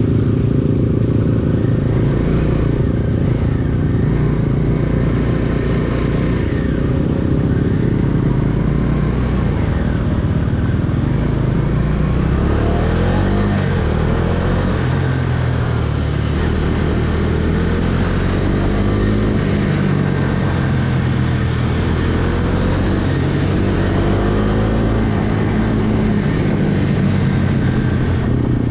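Bajaj Dominar 250's single-cylinder engine running while riding, its pitch rising and falling several times in the second half as the throttle opens and closes.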